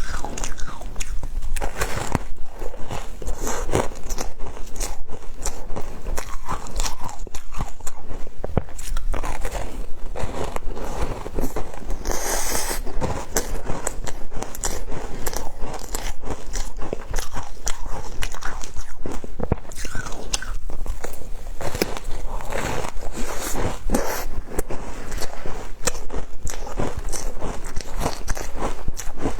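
A person biting and chewing frozen matcha ice: a continuous run of crisp crunches and cracks, with one brighter crack about twelve seconds in.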